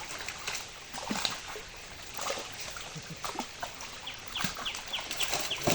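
A bird giving a quick run of about five short, high, falling chirps near the end, over scattered splashes and knocks of water.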